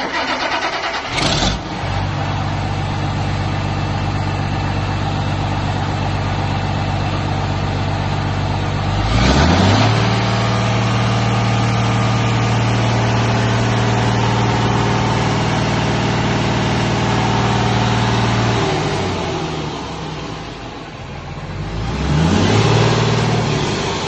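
Komatsu SAA6D170E-5 six-cylinder turbocharged diesel engine starting and settling into an even idle. About nine seconds in it is revved up and held at a higher speed for around eight seconds, then eased back down. It is revved briefly once more near the end.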